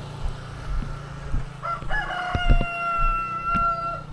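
A rooster crowing once: a short rising start about a second and a half in, then one long held call that sags slightly at the end. Under it runs the low steady hum of an idling motorcycle engine.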